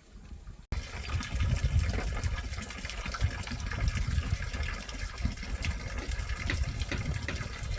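Water rushing and splashing, starting abruptly less than a second in and running on steadily with a heavy low rumble.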